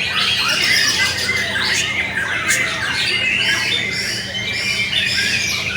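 Many white-rumped shamas singing at once: a dense, continuous chorus of overlapping loud whistles, trills and chirps, over a steady low hum.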